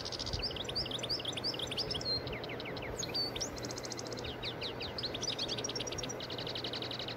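Songbirds chirping in the background: quick rising and falling whistled notes and a few rapid trills, going on throughout, over a faint steady hiss.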